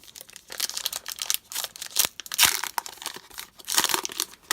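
Foil trading-card pack wrapper being crinkled and torn open by hand, in irregular crackling bursts, the loudest about two and a half seconds in.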